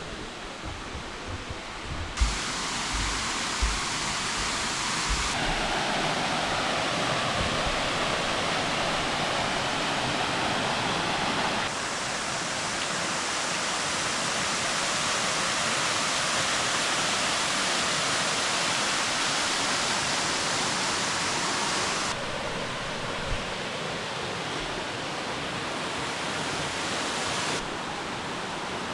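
Steady rush of falling water from a waterfall. Its loudness and tone change abruptly several times, with a few low bumps in the first few seconds.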